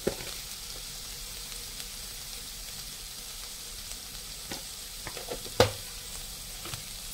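Minced meat (keema) sizzling as it fries in oil in a pan, a steady hiss. A few sharp clacks of a utensil against the pan, the loudest about five and a half seconds in.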